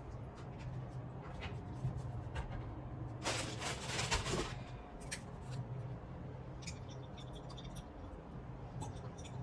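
Small kitchen handling noises: scattered light clicks and a brief scraping rustle about three seconds in, over a steady low hum.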